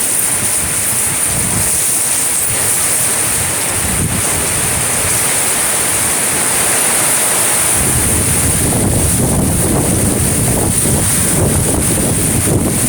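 Strong wind gusting across the microphone over a steady rushing hiss, the buffeting rumble getting heavier about eight seconds in.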